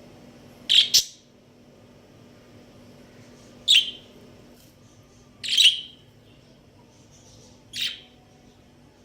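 Budgerigars calling: four short, sharp chirps spaced a couple of seconds apart, the first one doubled.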